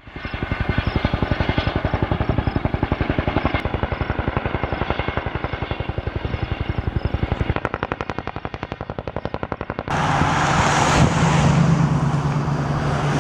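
Helicopter rotor beating in rapid, even pulses, about eight a second, its pattern shifting a little near the middle. About ten seconds in, it cuts abruptly to a steady, noisy engine sound with a low hum.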